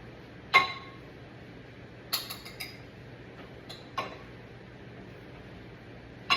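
Utensil clinking and knocking against a ceramic ramekin and plate as rice pilaf is packed into the ramekin: about six sharp clinks, some ringing briefly, the loudest about half a second in and a quick cluster of three around two seconds.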